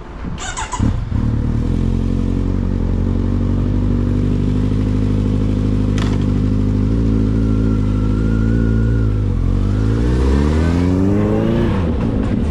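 Kawasaki Z900RS inline-four through a BEAMS aftermarket exhaust, cranking on the starter and catching about a second in, then idling steadily. Near the end it is revved once, the pitch climbing for about two seconds before dropping back to idle.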